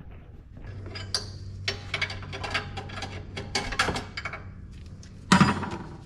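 A 12-volt air compressor test-run: the motor hums steadily with a clattering, ticking rattle for about five seconds, then stops with a loud knock.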